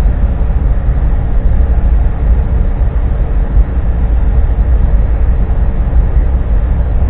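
Steady low rumble with a faint constant hum, as from a truck idling, heard from inside its cab.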